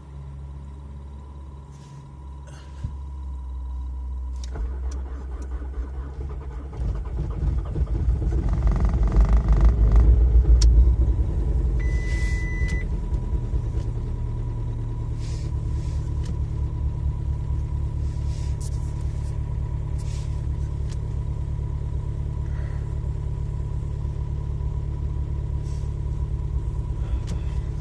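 Volkswagen 1.9 TDI (ARL) four-cylinder diesel cold-started at about minus 16 °C: after a few seconds of starting, the engine catches and runs loudest about ten seconds in, then settles into a steady idle with an even rhythmic beat.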